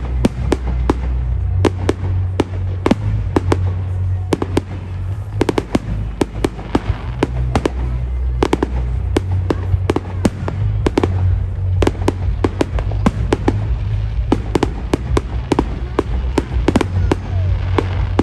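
Fireworks bursting in a rapid, continuous barrage of sharp bangs and crackles, several a second, over background music with a heavy bass.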